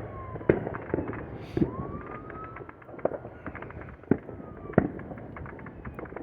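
Fireworks popping and banging, many overlapping reports with a handful of louder bangs about a second apart. Behind them a fire truck siren wails, its pitch sliding down and up.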